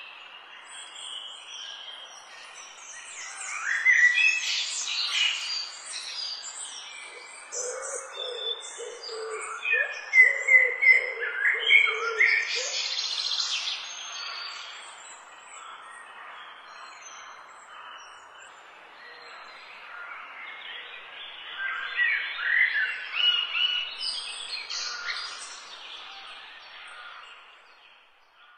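Several birds chirping and singing over a steady soft hiss, the calls coming in busy spells and fading out near the end.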